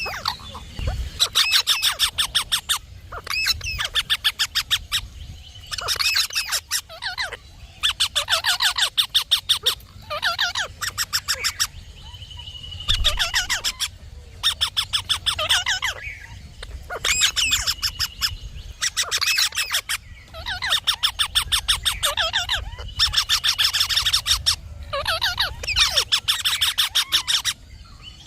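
Indian ringneck parrot calls in bursts of rapid shrill screeches, about ten a second. Each burst lasts a second or so, and the bursts repeat with short gaps between them.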